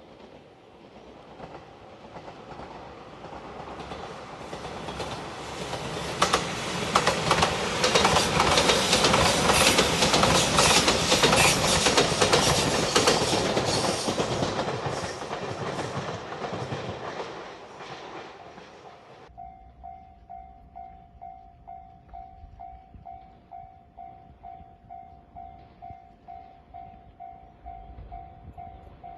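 A Japanese level-crossing warning bell rings with a repeating electronic ding as a Shiokaze limited express electric train approaches and passes over the crossing, wheels clacking over the rail joints. The train noise cuts off suddenly about two-thirds of the way in, leaving the crossing bell dinging about twice a second on its own.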